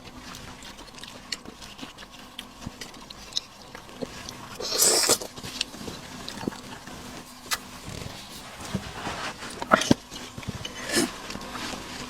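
Close-up eating sounds of someone chewing seafood: scattered wet clicks and smacks, with one louder slurping, crunching burst about five seconds in.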